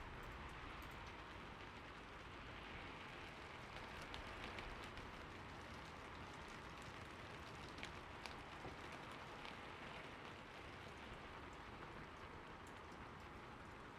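Steady, soft rain falling, an even hiss with scattered individual drops ticking on a surface.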